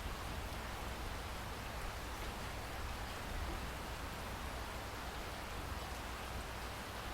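Steady rain falling, an even hiss with faint scattered drops and a low rumble underneath.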